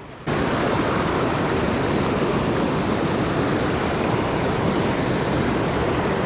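Loud, steady rushing of creek water, cutting in abruptly about a third of a second in.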